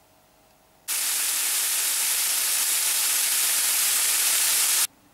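Diced bacon and onion sizzling in a frying pan: a steady hiss that starts abruptly about a second in and cuts off about four seconds later.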